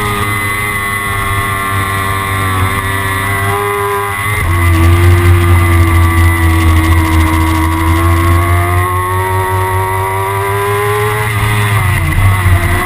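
Kawasaki ZX-6R's inline-four engine running at high revs. Its pitch drops suddenly about four seconds in, climbs slowly, then falls again near the end.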